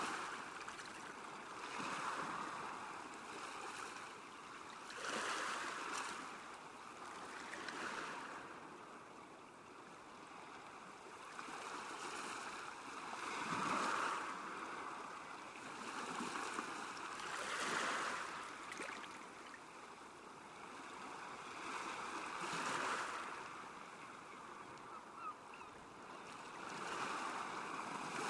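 Small waves lapping on a lake shore, the water noise swelling and falling every few seconds.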